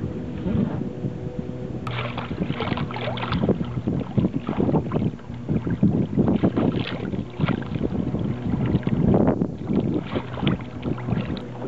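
Water splashing and slapping against a small sailboat's hull as it moves along, in irregular gushes for most of the time, over a steady low hum.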